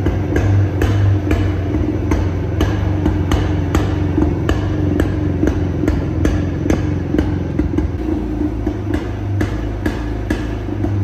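1973 Jawa 250's single-cylinder two-stroke engine running at idle on its stand, a steady low drone with sharp regular knocks about two or three times a second.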